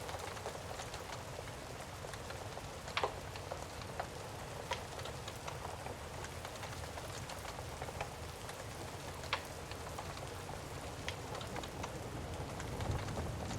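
Steady rain pouring, with a few sharp pops of a crackling fire every second or two. A low rumble builds near the end.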